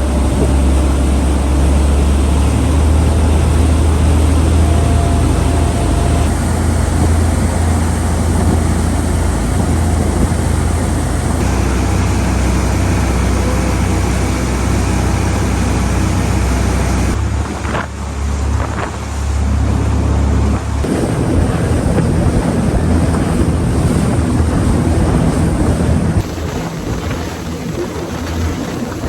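Fast ferry's engines running with a steady low drone under wind on the microphone and rushing water, the sound shifting abruptly several times.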